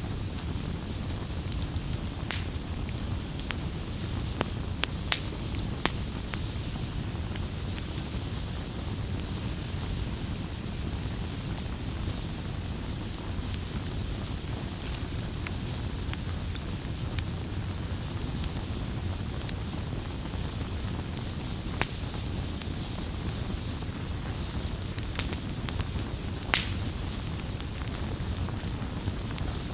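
Wood campfire crackling: scattered sharp pops over a steady low rumble. The pops come thickest in the first few seconds, with two louder ones late on.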